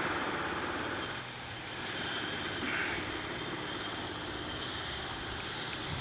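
1994 Honda CBR900RR Fireblade's inline-four engine, on Keihin flatslide carburettors, idling steadily through twin aftermarket silencers.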